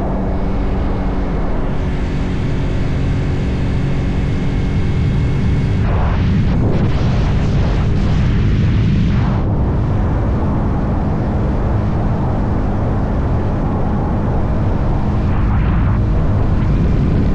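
Motorcycle engine running at a steady cruise under a heavy low rumble of wind and road noise. A louder rush of noise comes in about six seconds in and drops away about three and a half seconds later.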